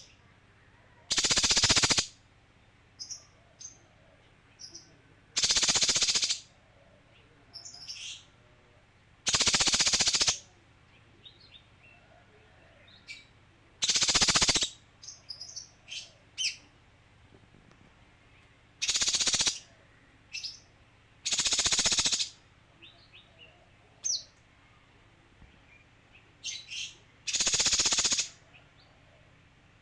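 Male cucak kinoi calling: seven loud, harsh, rasping bursts, each under a second and about four seconds apart, with short high chirps between them.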